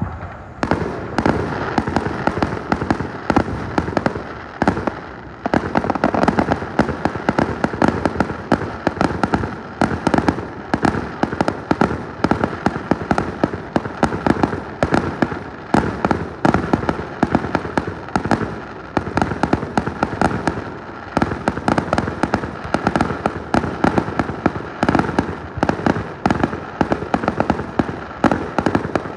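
Fireworks going off in a dense, continuous barrage of rapid pops and bangs, many per second, with only brief lulls.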